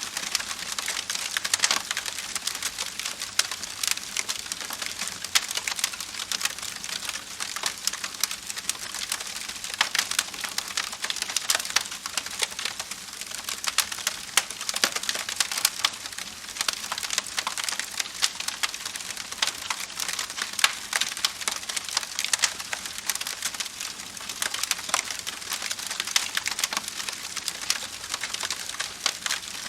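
Wood fire crackling: a steady hiss of burning wood with many small sharp pops and snaps scattered irregularly throughout.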